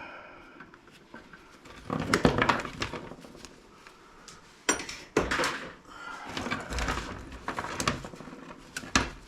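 Scrap wire and parts being handled and sorted: intermittent rustling, clicks and knocks, with the loudest clatter coming sharply about five seconds in.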